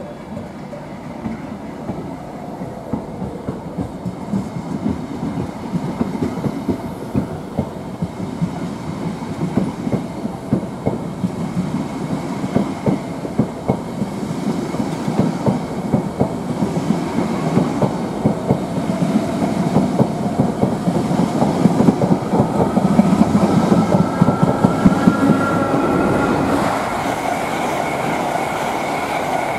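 Greater Anglia Mark 3 passenger coaches rolling along the platform and gathering speed, their wheels clicking over the rail joints faster and louder. A rising whine joins in about two-thirds of the way through.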